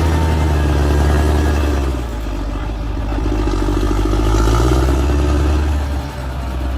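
Large bulldozer's diesel engine running under load. Its note drops about two seconds in and climbs again around the middle.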